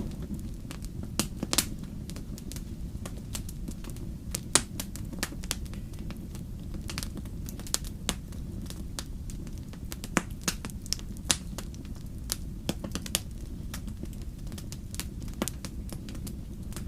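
Wood fire crackling, with irregular sharp pops over a steady low rumble; a few pops stand out louder, about one and a half, four and a half, and ten to eleven seconds in.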